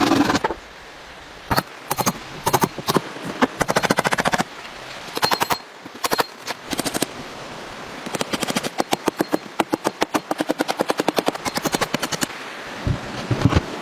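Rapid series of sharp knocks: scattered single strikes at first, then fast, even runs of several knocks a second.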